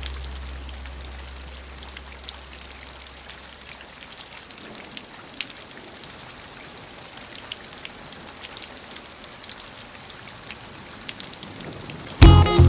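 Steady rain with scattered drop taps. The low tail of a song fades out at the start, and loud blues music cuts in abruptly near the end.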